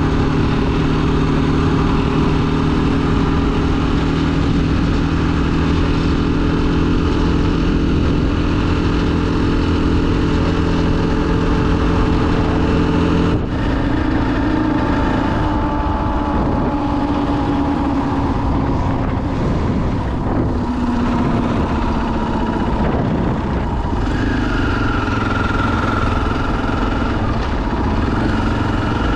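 2021 KTM 500 EXC-F single-cylinder four-stroke dirt bike engine running under way, holding a steady pitch for about the first half, then changing abruptly and rising and falling with the throttle for the rest.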